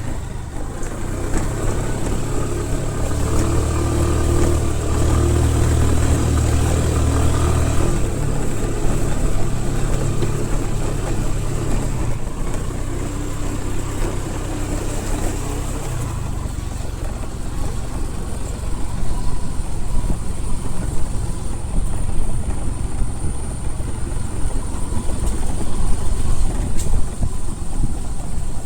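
A motor vehicle engine running, heavier in the first half and easing off after the midpoint, with a steady high-pitched tone over it.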